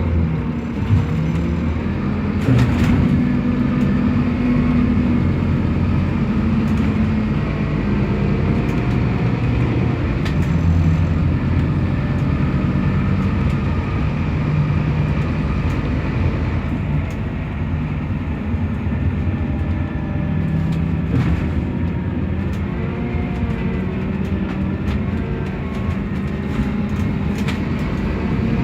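Scania DC9 five-cylinder diesel engine of a city bus running while the bus drives, its pitch rising and falling as the speed changes, with a few short knocks and rattles.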